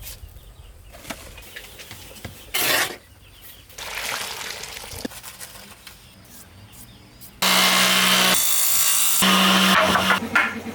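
Wood being cut: a few short sawing strokes, then a power tool cutting wood loudly for about three seconds, starting abruptly past the middle.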